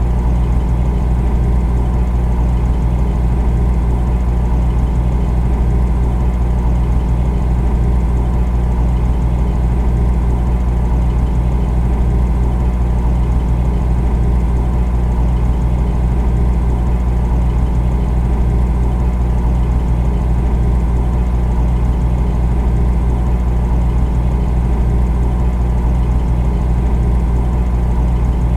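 Refrigerator running with a steady, unchanging low hum.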